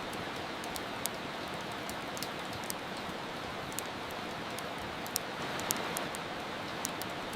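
Steady hiss of rain, with irregular sharp crackles and pops from a wood fire scattered over it, a few every second or two.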